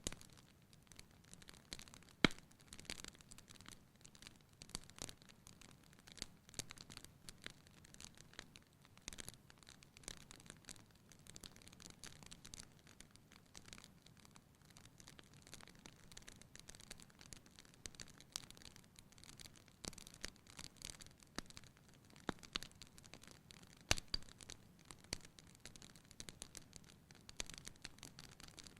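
Fire burning in a fireplace: irregular sharp crackles and pops over a faint low rush of the flames, with a louder pop about two seconds in and another a little before the end.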